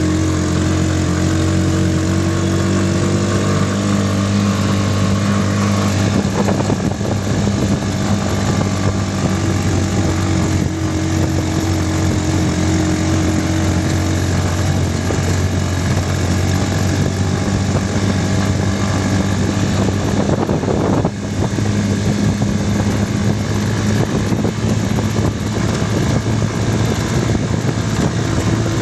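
Motorcycle engine of a sidecar tricycle running steadily while being ridden, a constant even hum, with a rougher rushing noise joining from about six seconds in.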